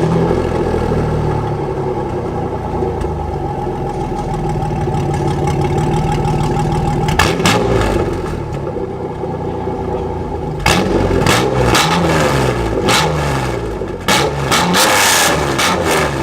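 Pontiac Firebird's engine running through a short, freshly fitted side-exit exhaust. It settles at idle for the first ten seconds or so, then is revved up and down several times.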